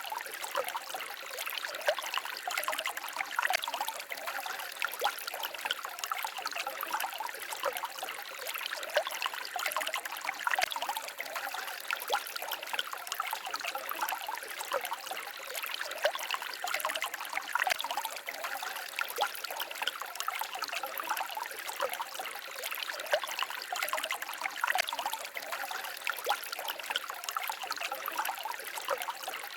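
Small forest stream babbling and trickling over stones, a steady splashing with constant small flickers of water.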